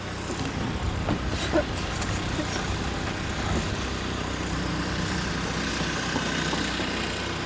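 Steady motor vehicle noise: an engine running with a low, even hum, and faint voices in the background.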